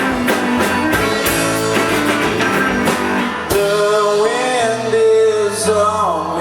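Live rock band playing: drums keeping a steady beat under electric guitar and bass. About three and a half seconds in, the drum hits drop back and a long, wavering melody line is held over the bass.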